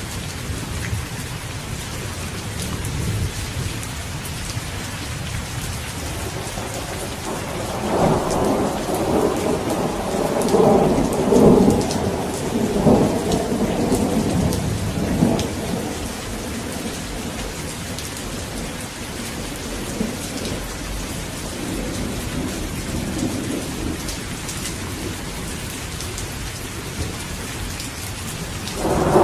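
Steady rain falling, with a roll of thunder rumbling in about a quarter of the way through and fading away over several seconds.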